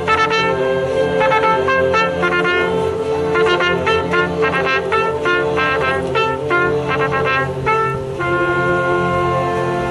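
Trumpet solo with orchestral accompaniment. The trumpet plays a run of quick notes over sustained lower parts, then settles onto a long held chord about eight seconds in.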